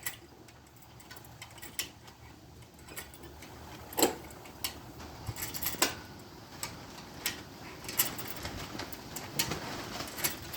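Irregular sharp clicks and light metallic knocks of hand tools and parts being handled while a planer's motor and jackshaft are taken apart, a few louder knocks standing out.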